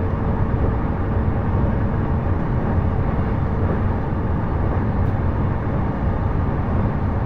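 Running noise of a JR East E233-series electric train, heard inside the passenger car as it runs between stations: a steady rumble of wheels on rail, even throughout, with a faint steady tone that fades out just after the start.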